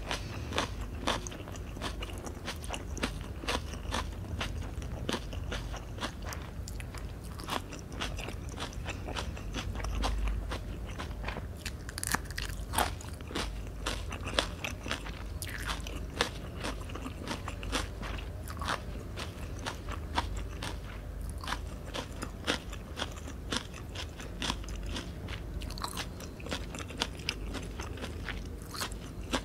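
Close-miked chewing and biting of Vietnamese fresh spring rolls, rice paper wrapped around lettuce and fillings. Many small, sharp, crisp crunches and wet mouth clicks run on steadily.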